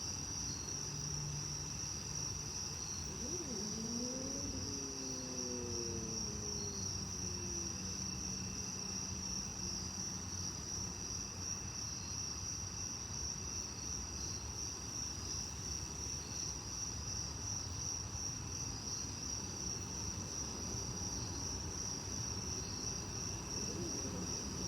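Crickets chirping steadily as a continuous high, pulsing trill over a low background rumble. A few seconds in, a distant engine hum rises and then falls in pitch as it passes.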